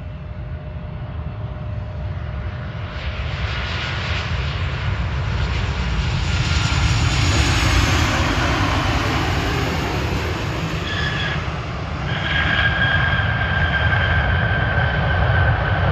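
Southwest Boeing 737 jet airliner arriving on landing: the rush of engine and air noise swells to a peak about halfway through, then a steady high jet-engine whine comes in a few seconds before the end as the sound grows louder again.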